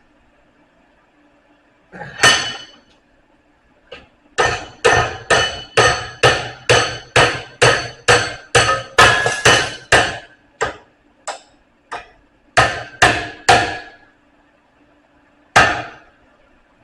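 Hammer blows on a steel bar, each strike ringing, as the bar is bent over a bending jig into a 90-degree bend with a quarter-inch inside radius. One blow, then a fast run of about three strikes a second for some six seconds, then a few scattered blows and a last single strike near the end.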